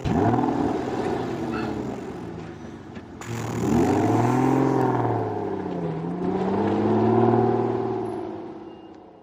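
Truck engine running and revving, its pitch rising and falling in several swells, then fading away near the end.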